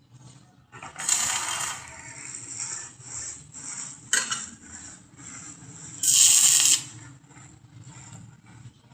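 Metal parts being handled in fabrication work: two short, harsh scraping sounds with a sharp metallic click between them, and light clinks and ticks throughout.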